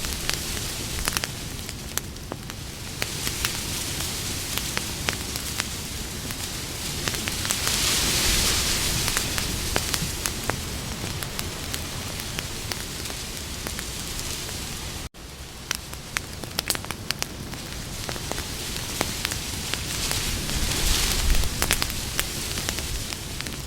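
Wood campfire burning, with many irregular sharp crackles and pops over a steady hiss that swells and fades. The sound cuts out for an instant about two thirds of the way through.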